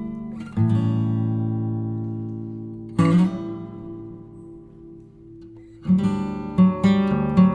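Background music: acoustic guitar strumming chords that ring out and fade, with a quicker run of strums near the end.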